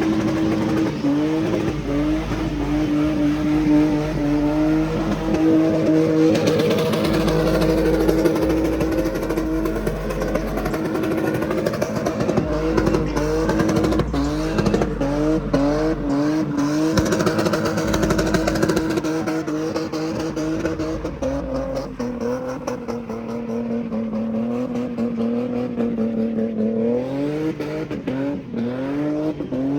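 Car engine revved hard and held at high rpm, its pitch dipping and climbing again many times in quick succession, with sharp crackles in the middle; about two-thirds of the way through it settles to a lower steady note.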